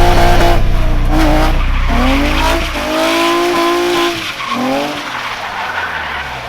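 Nissan 240SX's swapped-in 350Z 3.5-litre V6 revving hard, its note rising and falling again and again, while the tyres squeal in a drift. The heavy low rumble drops away about halfway through, and the sound grows fainter toward the end.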